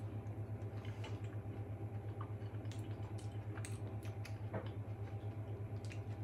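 A man chewing a mouthful of loaded fries, with scattered small clicks and ticks as a metal fork picks at the cardboard tray, over a steady low hum.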